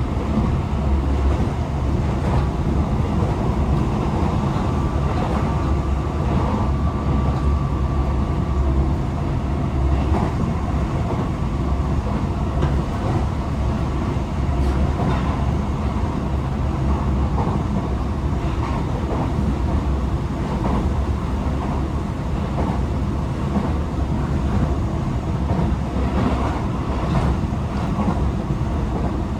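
Tokyo Metro 18000-series electric train running at speed, heard from inside the car: a steady low rumble of wheels on rail with scattered clicks over rail joints. A faint steady whine comes in about four seconds in and fades out about four seconds later.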